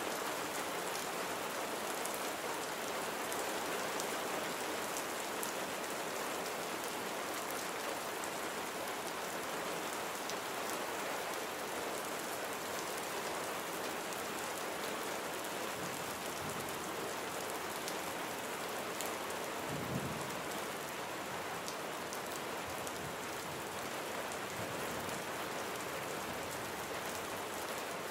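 Steady rain falling on surfaces, an even hiss with scattered individual drop ticks. A brief low thump comes about two-thirds of the way through.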